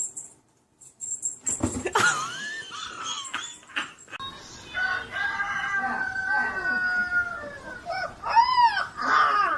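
An animal calling: one long held call, then a quick run of short rising-and-falling calls near the end, over music.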